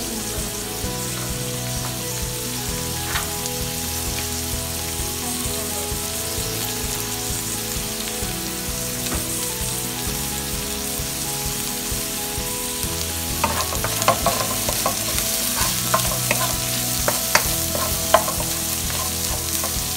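Garlic, ginger and onions sizzling steadily in hot oil in a pan. From about halfway on, a utensil stirring them knocks and clicks against the pan.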